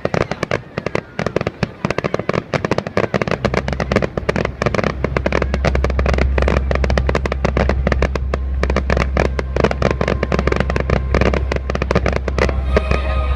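Fireworks going off: dense, rapid crackling throughout, with a deep low rumble joining in about three and a half seconds in and holding on.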